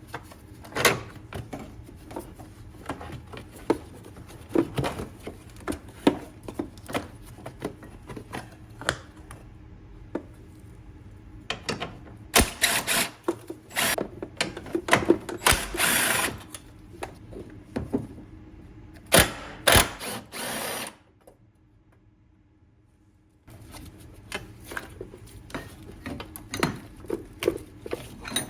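Tool work: a run of clicks and knocks, with several louder bursts of a power tool lasting a second or two each, and a short drop to near silence about two-thirds of the way in.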